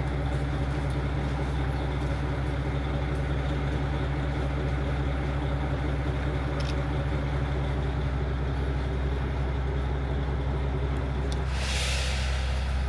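KiHa 40 diesel railcar's engine idling steadily. Near the end comes a short hiss of compressed air, lasting about a second, and the engine's tone shifts slightly after it.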